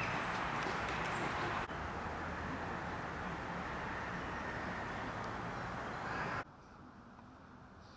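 Steady outdoor background noise, a hiss with no clear single source, that changes abruptly about a second and a half in and drops to a much quieter, duller hum about six seconds in.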